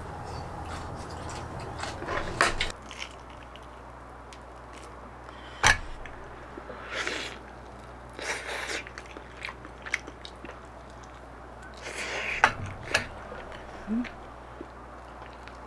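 A person eating beef-bone soup with rice: chewing, with scattered sharp clicks and short rustling bursts.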